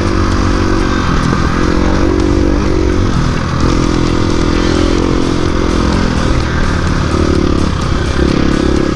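Dirt bike engine running hard on a trail ride, its note rising and falling several times as the throttle opens and closes.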